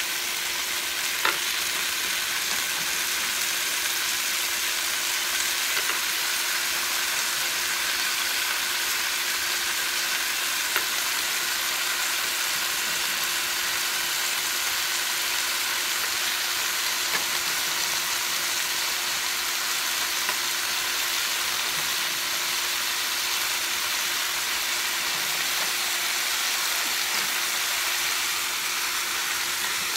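Sliced sausage, onions and bell pepper sizzling steadily in a large skillet while raw potato slices are dropped in by hand, with a few small clicks as they land.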